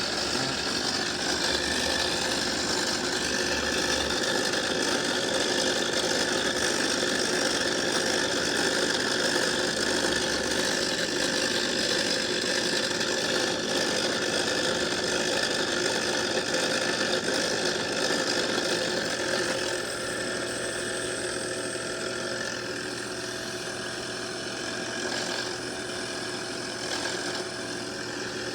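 Home-built lathe running steadily as it turns a part, a continuous mechanical whir that drops a little in level about 20 seconds in.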